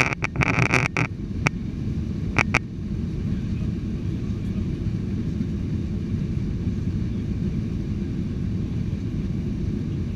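Steady low rumble inside the cabin of a Boeing 737-800 airliner, its jet engines and airflow running evenly. A brief rattle in the first second and two sharp clicks, about a second apart, sit over it near the start.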